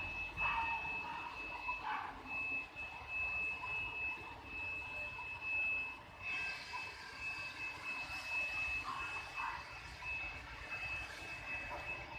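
A vehicle's reversing alarm beeping repeatedly on one high note, over a low engine rumble; a hissing noise joins about six seconds in.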